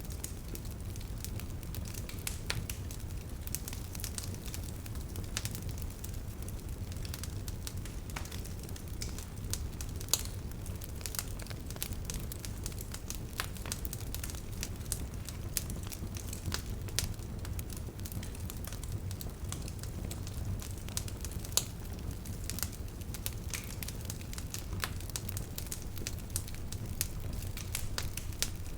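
Bonfire burning, the wood giving off frequent sharp crackles and pops over a low steady rumble.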